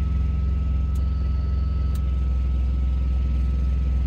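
An engine idling steadily, a constant low drone with a thin steady whine above it.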